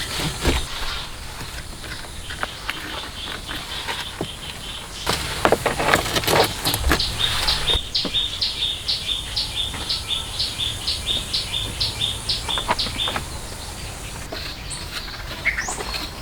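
Scattered knocks and scrapes, then a steady run of short high chirps, about three a second, for five seconds or so, against outdoor ambience.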